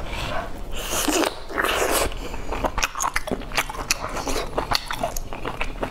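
Close-up wet chewing and lip-smacking on a boiled dumpling: a brief breathy hiss about a second in, then a run of quick, sticky mouth clicks.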